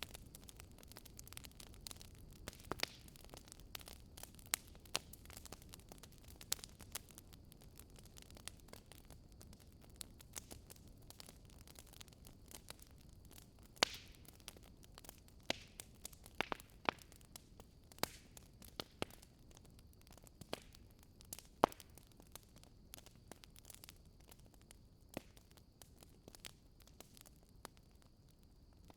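Wood fire crackling in a fireplace: irregular sharp pops and snaps, some much louder than others, over a low steady rumble of the burning.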